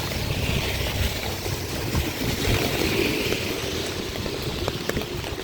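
Steady rushing noise of floodwater, with a low rumble underneath.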